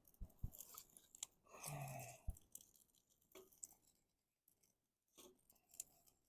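Faint, scattered crackles and small snaps from twigs and birch bark at a twig stove, with a brief rustle about two seconds in.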